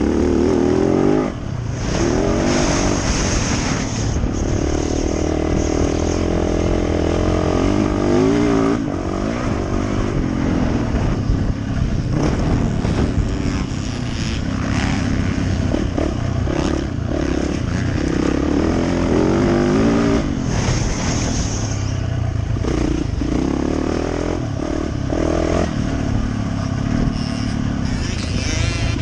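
Yamaha YZ450F single-cylinder four-stroke dirt bike engine under hard riding, revving up and falling back again and again as the rider works the throttle and gears.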